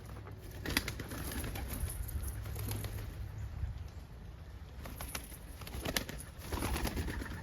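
Homer pigeons in a loft flapping their wings and shuffling about, with sharp clicks. The flapping comes in two bursts, about a second in and again near the end.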